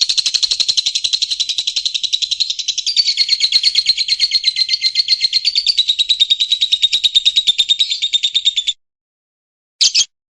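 White-rumped shama (murai hutan) giving a long, fast, pulsed trill of over ten notes a second, which stops abruptly, followed by a single short note near the end.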